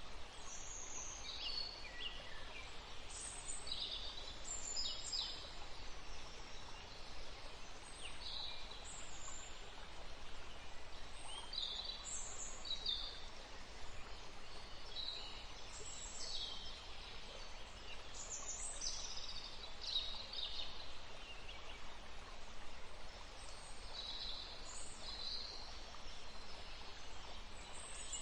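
Songbirds chirping: many short high calls and trills, some sliding up or down, scattered throughout over a steady background hiss.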